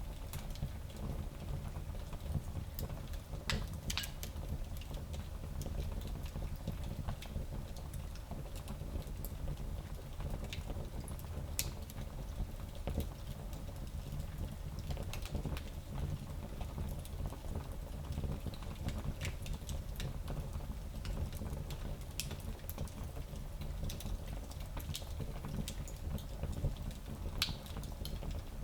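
Fire in a small fireplace crackling: scattered sharp pops and snaps over a steady low rumble.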